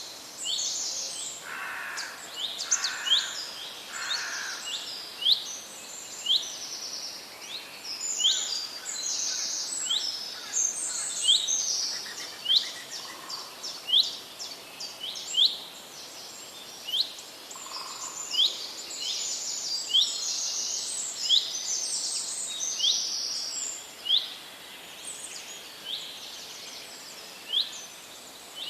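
Several birds singing: a sharp chirp repeated about once a second over denser high twittering, with a few lower notes in the first few seconds.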